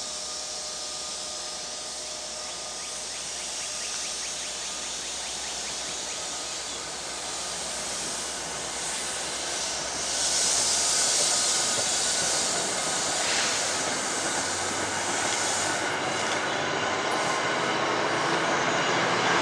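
NJ Transit commuter train passing close by, cab car first: a steady rumble of wheels on rail gets louder about ten seconds in as the cars arrive, with a rush of hiss, and a low engine hum builds near the end.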